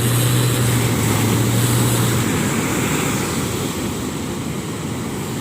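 Sea waves surging and breaking on a sandy shore, with wind rumbling on the microphone. A low steady hum sits under it for the first two seconds, then fades.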